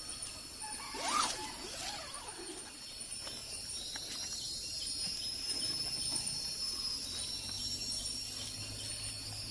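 Steady high-pitched drone of forest insects, with two short rising-then-falling animal calls in the first two seconds. A low steady hum comes in about seven seconds in.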